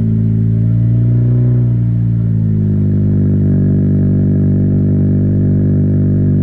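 Exhaust of a 9th-gen Honda Civic Si's 2.4-litre four-cylinder idling through an aftermarket muffler just after startup. A steady, deep note whose pitch lifts slightly and settles about two seconds in.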